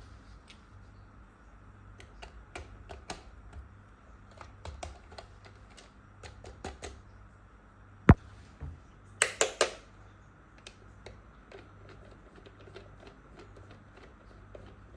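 Small plastic toy-tool pieces being handled, with scattered light clicks and taps. About eight seconds in there is one sharp snap, and a second later a quick run of three or four louder clatters.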